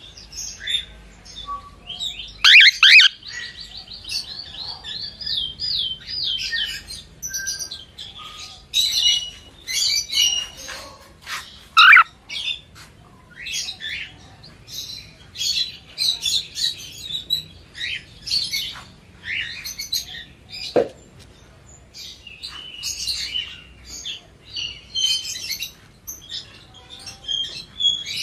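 Cockatiel chirping and whistling in a run of short, high calls, with a fast trill of repeated notes a few seconds in and a loud rising whistle about twelve seconds in.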